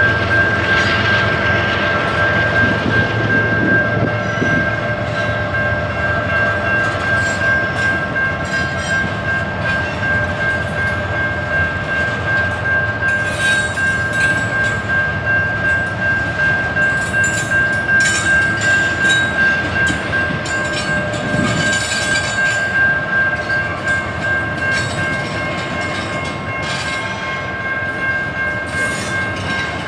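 Train rolling past, its wheels clicking in a steady rhythm over the rail joints, with a steady high-pitched tone held throughout over the rumble.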